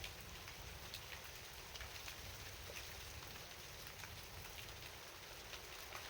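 Steady night rain falling, with sharp individual drops ticking every so often over the hiss and a low rumble underneath.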